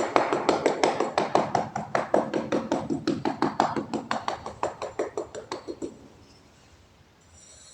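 Rapid, even tapping, about six taps a second, growing fainter and stopping about six seconds in.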